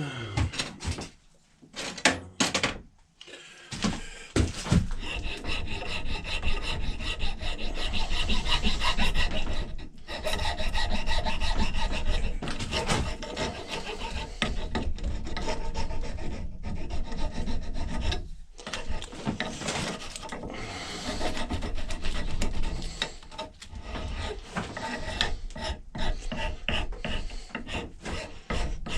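A file rasping back and forth on the wooden axe haft, rounding off its edges, in repeated strokes. A few separate strokes come first, then near-continuous filing with brief pauses.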